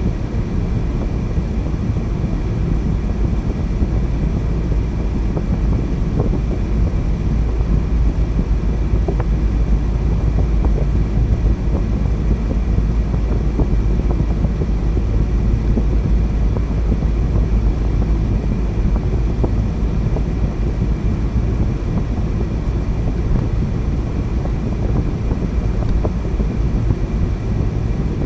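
A car driving at a steady speed: an even, low rumble of tyres on the road, wind and engine, with no change throughout.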